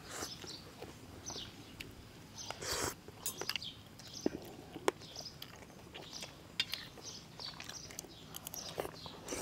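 Someone eating: chewing and lip-smacking, with scattered small clicks and short high chirps behind.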